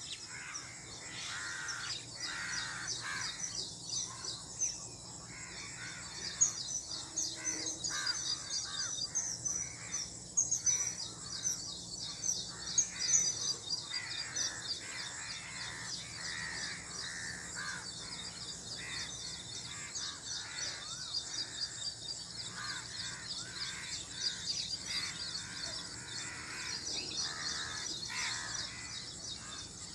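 Outdoor birdsong: several birds calling at once, with a fast, high chirping that keeps up throughout and louder, harsher calls lower in pitch coming every second or so.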